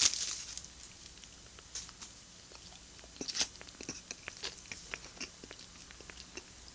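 A plastic wrapper crinkles briefly at the start, then a processed cheese slice is chewed quietly, with scattered soft mouth clicks.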